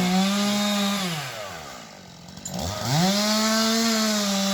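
Chainsaw revved up to a high steady pitch, easing off and dropping back about a second in, then revved up again and held near the end.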